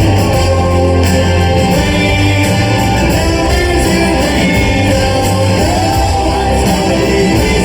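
Live rock band performing with guitars, bass and drums, and singing over them.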